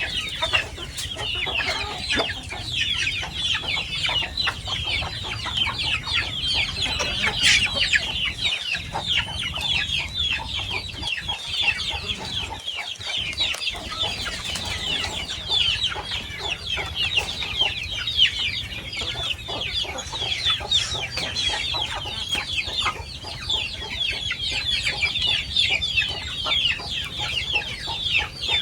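A large flock of kampung chickens, many calling at once in an unbroken chorus of short, high cheeping calls.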